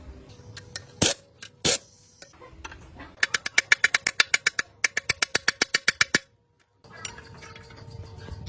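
Two sharp knocks, then two quick runs of rapid, ringing metal-on-metal strikes at about nine a second, like rapid hammering or a pneumatic tool hitting steel in a workshop. Near the end the strikes stop and a steady machine hum follows.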